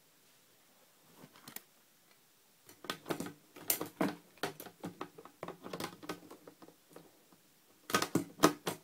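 Hands rummaging in a cricket container to catch a feeder cricket: a string of irregular clicks, taps and rustles that starts about a second in, grows busier, pauses briefly and ends in a quick cluster of knocks.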